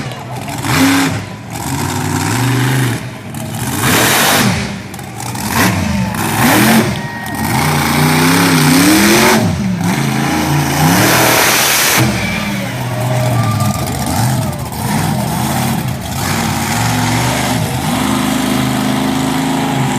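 Monster truck's engine revving hard in repeated bursts while the truck pulls wheelies, its pitch climbing and falling. After about twelve seconds it settles into a steadier, lower run.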